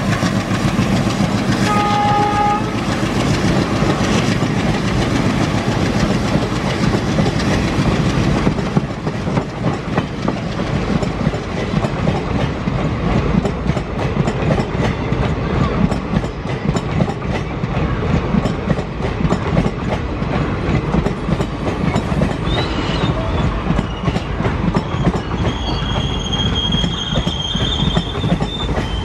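Diesel-hauled passenger train passing: a short horn blast from the locomotive about two seconds in, then the coaches rolling by with a steady clickety-clack of wheels over rail joints. The sound is loudest in the first several seconds, and a high wheel squeal comes near the end.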